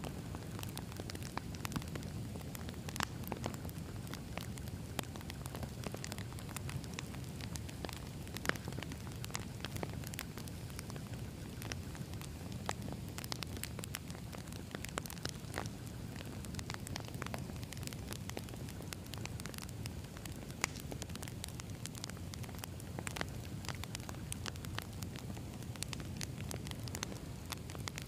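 Campfire of burning logs crackling and popping, with many sharp irregular snaps over a steady low rumble of the flames.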